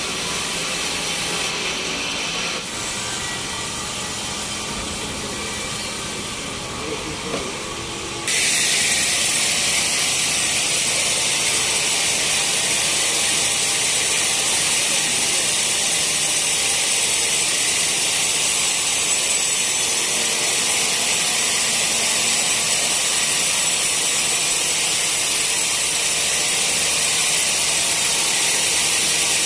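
Sawmill machinery running on teak logs, a steady noisy hiss. About eight seconds in it turns abruptly louder and harsher, mostly high hiss.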